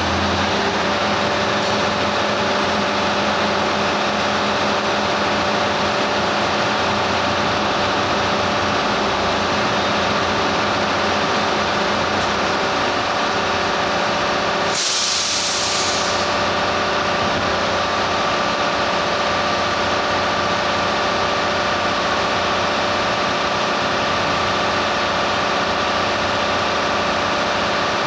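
A lorry engine idling steadily, with a short hiss of released compressed air about halfway through.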